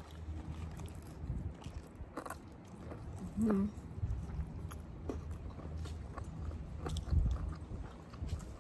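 Close-up biting and chewing of crispy fried chicken, with scattered small crunches and mouth sounds. A brief hummed vocal sound about three and a half seconds in.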